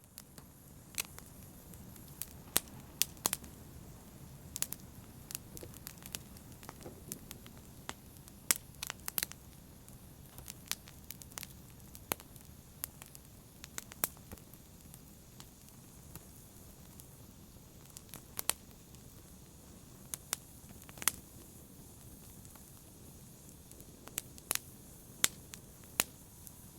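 Fire in a fireplace crackling: irregular sharp pops and snaps, a few each second, over a steady low rush of the flames.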